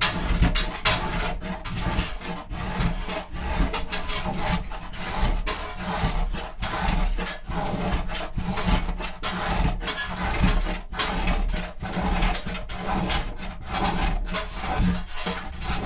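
Hand tool rasping and scraping mulberry wood in repeated strokes, thinning the wall of a carved wooden trough.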